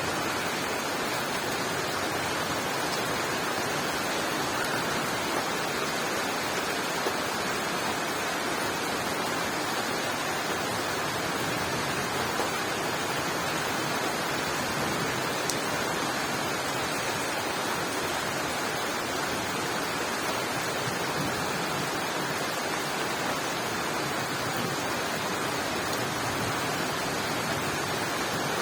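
Rain falling steadily on leaves, an even hiss with a couple of slightly louder drop ticks.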